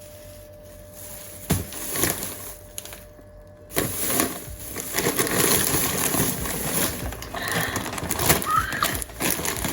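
Household handling noises in a small room: a few scattered clicks and knocks, then from about four seconds in a denser, steadier rustling hash with many small clatters.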